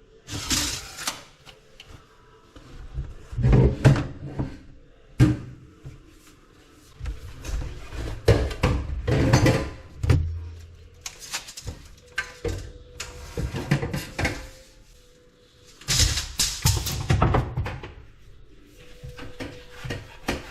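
Irregular knocks, clatter and scraping of hands-on plumbing work, as tools and drain pipe parts are handled, with short quiet gaps between bursts.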